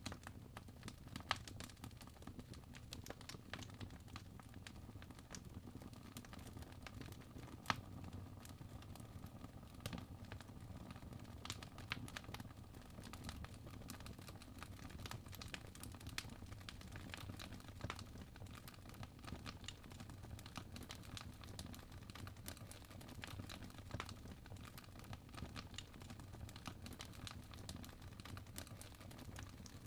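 Fire burning in a fireplace: a low, even rumble of flames with frequent small crackles and pops, and two sharper pops, one about a second in and one near eight seconds in.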